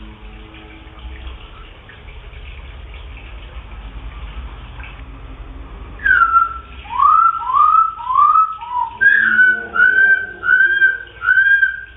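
Wambi bird singing a run of about nine loud, clear whistled notes, starting about halfway in. The first note falls, the next few rise, and the last ones are repeated at a steady, slightly higher pitch. A low hum and faint water-like noise lie underneath before the song begins.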